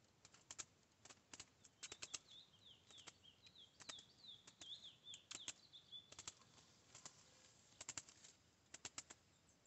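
A curió (chestnut-bellied seed-finch) flutters inside a bamboo trap cage, making irregular light clicks and taps as it moves against the bars. From about two to six seconds in, a bird gives a quick run of short, high, falling chirps.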